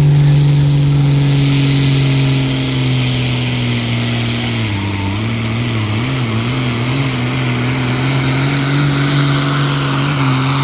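A pulling machine's engine running hard at steady high revs; from about five seconds in its pitch wavers up and down about once a second.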